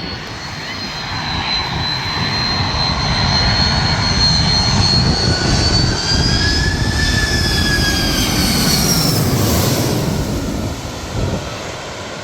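Jet airliner engines passing by: a low rumble with a high whine that swells over several seconds, holds, then fades about ten seconds in.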